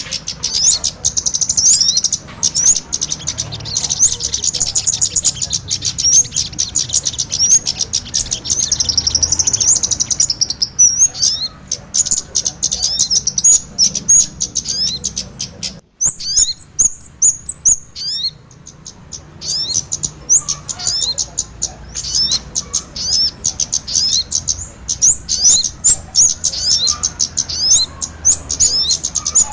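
Bird-luring call recording of kemade and sogon birds: a dense, nearly unbroken stream of rapid high chirps and trills, dropping out abruptly for a moment about halfway through. A faint low hum runs underneath.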